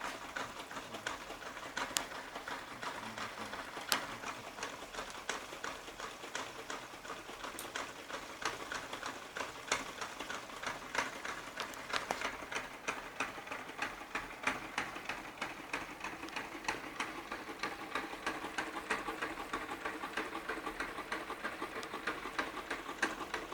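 Electromagnetic piston engine running, a rapid, steady clicking of its mechanism with a light hum beneath.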